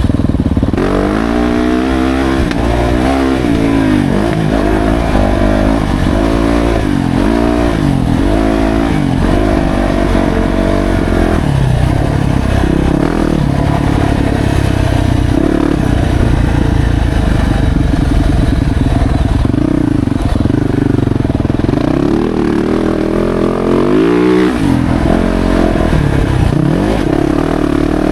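Yamaha YZ450F's single-cylinder four-stroke engine being ridden hard round a motocross track, revving up and rolling off over and over. Its pitch rises and falls about once a second at first, then holds steadier before a sharp drop and pick-up near the end.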